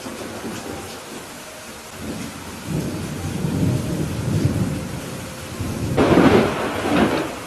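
Steady rain falling through a thunderstorm, with thunder rumbling low from about two seconds in and a louder thunder peal about six seconds in.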